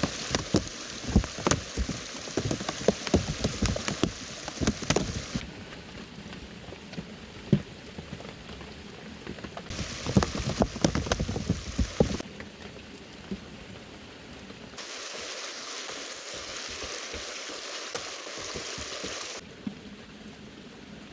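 Heavy rain falling steadily, with many sharp drop impacts striking a nearby surface in the first five seconds and again around ten to twelve seconds in. The hiss of the rain shifts abruptly in tone several times.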